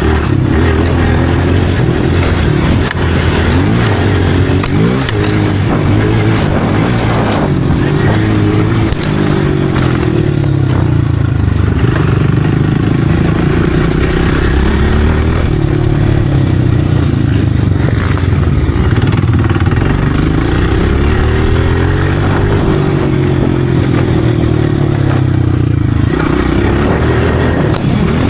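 Motocross dirt bike engine being ridden, revving up and down as the rider works the throttle and gears, with scattered clattering knocks.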